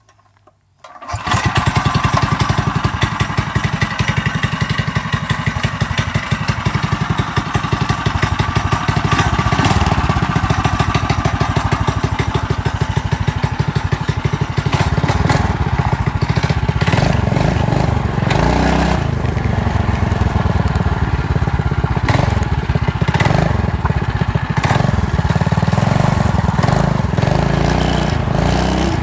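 Small engine of a home-built drag mini bike trike starting about a second in, then running steadily, with some changes in engine speed in the second half.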